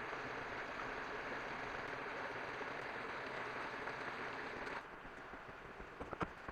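Steady rushing of water that stops abruptly near the end, followed by a few sharp knocks.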